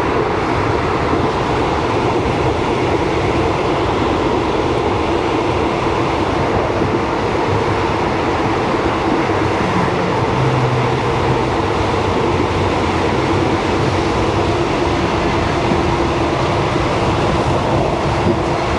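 Thai passenger train running, heard from inside the carriage: a steady loud rumble with a constant hum over it, on what is called the noisiest train in a long time.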